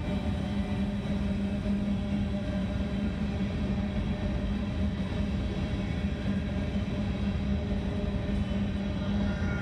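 Coal train hopper cars rolling past on steel wheels and rails: a continuous, even rumble with a steady low hum.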